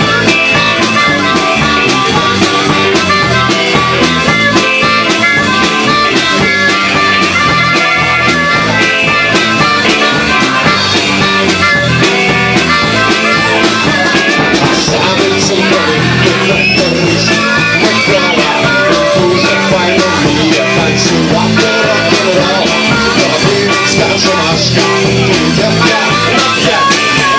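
Rockabilly band playing live and loud, a full rock-and-roll sound with guitar over bass and drums, with a few bent notes about halfway through.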